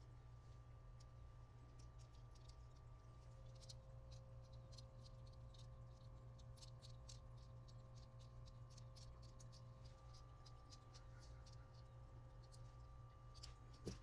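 Faint, irregular clicking and ticking of small hard parts and hand tools being handled, over a steady low hum, with one slightly louder click near the end.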